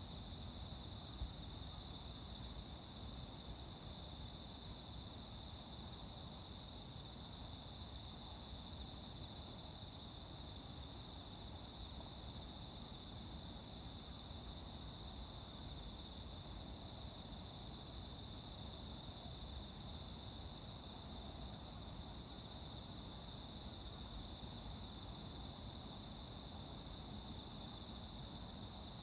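Steady chorus of crickets and other singing insects: an unbroken high-pitched trilling that holds even throughout, over a low background rumble. A single faint tick about a second in.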